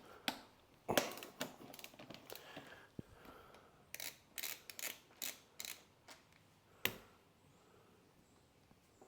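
Irregular metallic clicks, clinks and scrapes of hand tools at work on a motorcycle's front wheel and brake. A sharp knock comes about a second in, a quick run of clicks follows a few seconds later, and one more knock comes near the end.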